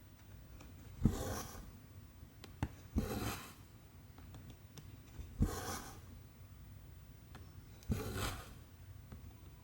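Needle and cotton thread being pulled through 14-count cross-stitch fabric, four stitches: each a sharp tick as the needle pierces the fabric, then a short rustling swish as the thread draws through.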